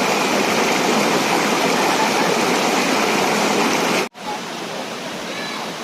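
Water of a tiered waterfall rushing steadily over its steps. About four seconds in, the sound cuts off abruptly and picks up again a little quieter.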